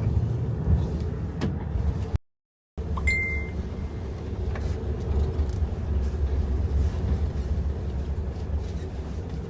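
Steady low rumble of a moving vehicle, with a brief dead silence about two seconds in and a short high beep just after it.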